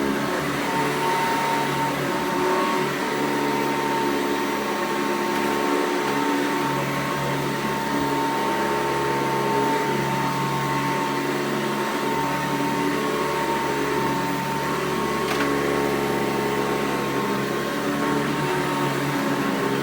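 1991 Hoover Encore upright vacuum cleaner running steadily on carpet, its motor giving a constant whine with a slightly wavering lower hum as it is pushed back and forth. A brief click about fifteen seconds in.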